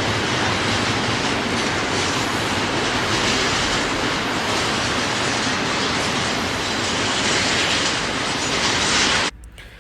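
Intermodal container freight train rolling past, a steady rush of wheel and rail noise with clickety-clack, cutting off suddenly near the end.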